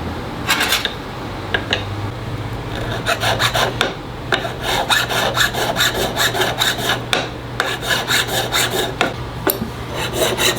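Hand file rasping on a metal ring in quick, even strokes, several a second, starting about three seconds in after a brief first stroke near the start.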